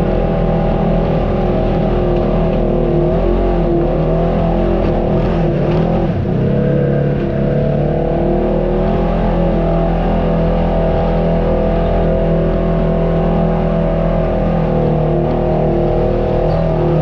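Off-road vehicle engine running steadily under a constant load, its pitch wavering briefly about five to six seconds in.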